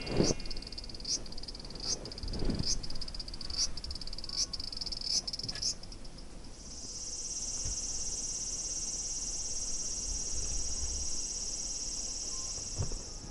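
Cicada singing: a string of short high strokes, roughly one every half to three-quarters of a second, then from about halfway on a steady, continuous high buzz. A couple of dull low thumps come early on.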